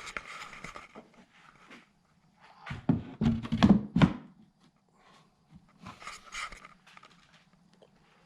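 A quick cluster of knocks and thumps about three seconds in, with softer rustling before and after, and a faint steady hum in the background.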